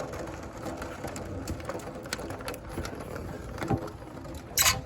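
Hail and rain ticking on window glass: a steady hiss with many small irregular taps, and one louder burst of noise near the end.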